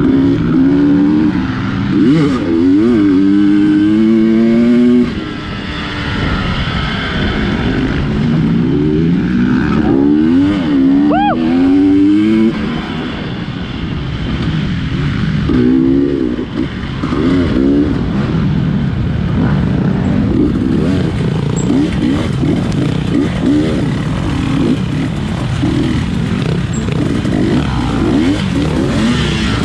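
GasGas 250 dirt bike's engine under hard throttle, its revs climbing in several long rising sweeps with brief let-offs, then a choppy run of short throttle bursts, as in tight off-road riding.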